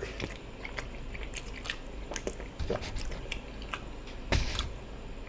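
Close-miked chewing and wet mouth clicks of a person eating ofada rice and stew. There is one louder, brief noisy mouth sound about four seconds in.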